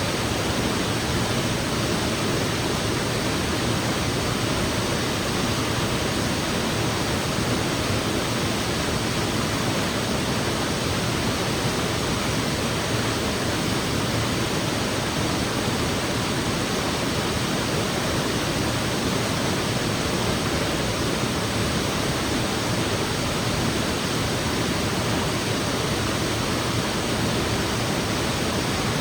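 Waterfall pouring close to the microphone: a steady, unbroken rush of falling water.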